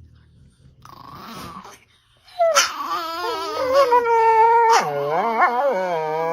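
A dog vocalising: a short, soft call about a second in, then one long, wavering, pitched call lasting about four seconds that bends down and up in pitch.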